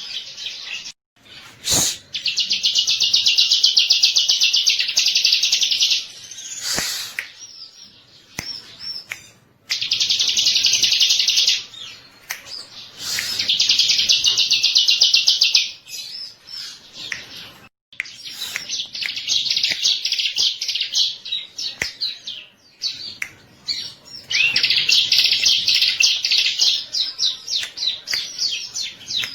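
Bar-winged prinia (ciblek) singing: long phrases of very fast, high trilled notes, each lasting a few seconds, with short pauses between them.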